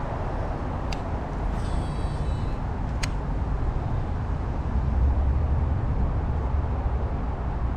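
Steady low outdoor rumble, with two sharp clicks about one and three seconds in and a brief high, thin chirping between them.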